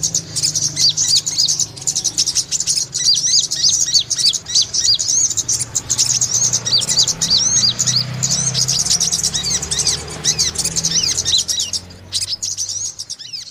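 Brown-throated sunbirds chirping: a dense, rapid run of high, overlapping chirps over a steady low hum, fading out near the end.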